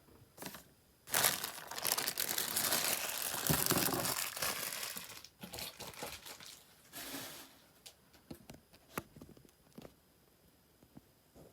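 Packaging crinkling and rustling as it is handled, loudest for about four seconds from around a second in, then a shorter burst and scattered small clicks and taps.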